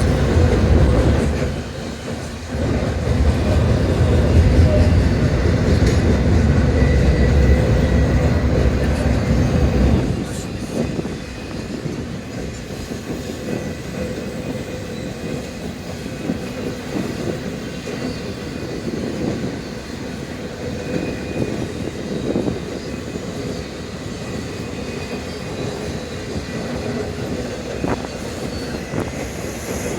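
Freight train passing: a heavy low rumble for about the first ten seconds, then the quieter, steady rolling of the cars with clicking wheels over the rail joints.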